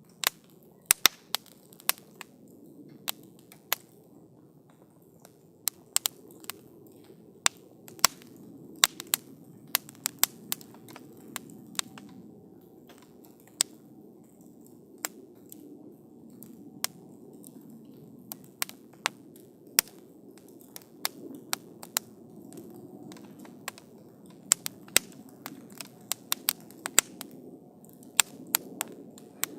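Campfire burning with irregular sharp crackles and pops from the wood, over a soft steady rush of flame.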